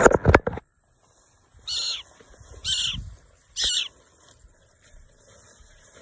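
A brief loud burst of noise right at the start, then three short, high bird calls about a second apart.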